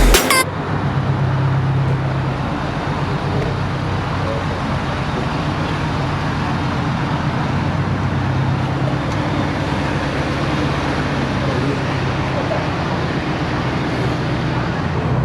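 A motor vehicle engine running steadily: a constant low drone with a haze of noise and no revving.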